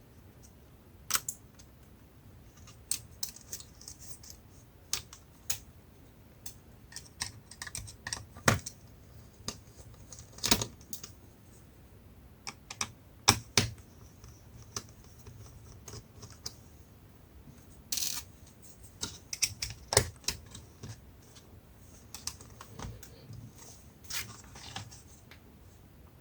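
Irregular clicks, taps and light knocks of plastic and metal parts and small tools being handled while taking a laptop apart, with a brief scraping rustle about two thirds of the way through.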